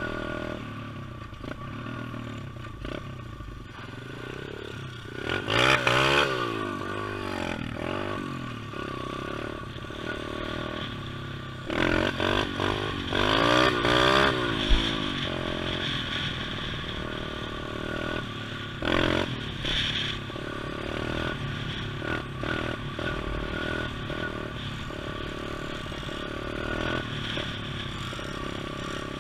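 Pit bike engine running, revved up and down in quick bursts about five seconds in and again for several seconds around the middle, with a shorter burst later, and a steady engine drone between them.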